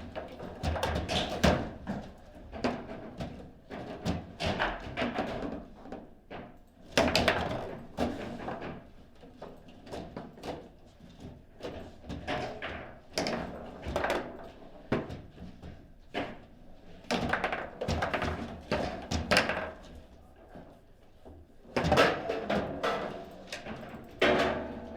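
A table football game in play: irregular sharp knocks and clacks as the ball is struck by the figures and bangs into the table walls, with a few much louder hits among them.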